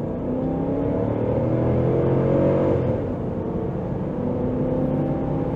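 A 2013 Jeep Grand Cherokee's 5.7-litre HEMI V8 revving up under hard acceleration, heard from inside the cabin. The pitch climbs, drops sharply as the automatic gearbox shifts up about three seconds in, then climbs again.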